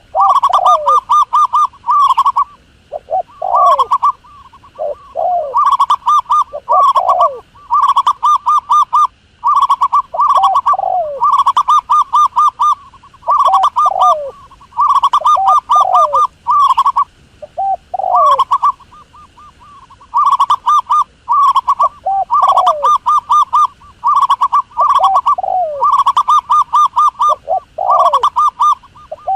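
A dove cooing over and over in fast runs of short, even notes, each run often followed by a few lower, falling notes. The runs come about every one to two seconds, with short gaps between them.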